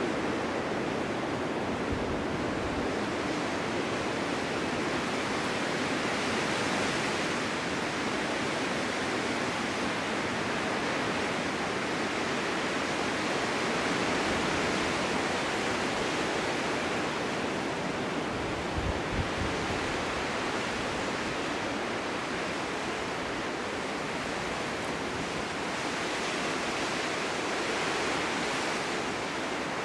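Snowstorm wind blowing steadily, a constant rushing that swells and eases gently in gusts, with one short low thump about two-thirds of the way through.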